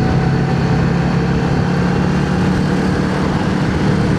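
Yamaha XVS650 motorcycle's air-cooled V-twin engine running steadily at an even cruising speed, heard on board with a steady rush of wind.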